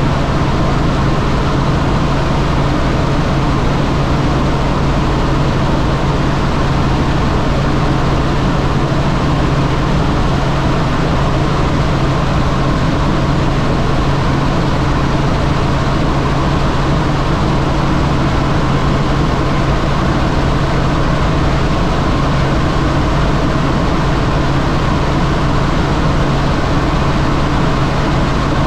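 Helicopter in flight: steady rotor and engine noise with a constant low hum.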